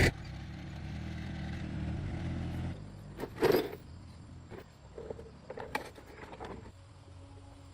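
Freshly repaired tractor engine running steadily, then stopping about two and a half seconds in, followed by a few scattered knocks and clicks.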